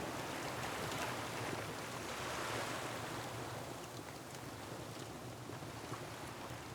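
Ocean surf washing against a rocky shore, one swell building about two seconds in and then easing off, with faint crackles from a wood fire.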